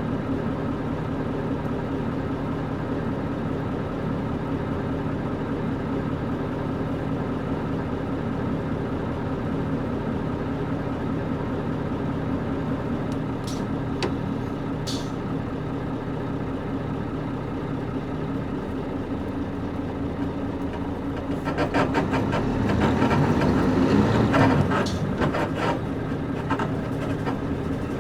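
The PG6 diesel engine of a Nissan Diesel KC-UA460LSN bus runs steadily at an even pitch, heard from inside the cabin. About three quarters of the way through it gets louder for a few seconds, with a burst of rattling and creaking from the body.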